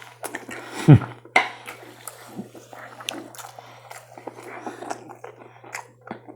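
Close-up chewing and wet mouth clicks of someone eating, with a loud falling-pitched sound about a second in.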